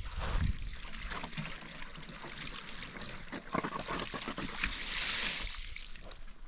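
Water trickling and splashing, with many small splashes and knocks, and a louder rush of water about five seconds in.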